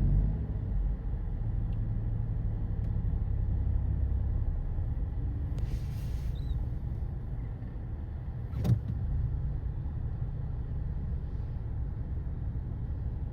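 Car driving on the road: a steady low rumble, with a short hiss about six seconds in and a single sharp knock a little before nine seconds.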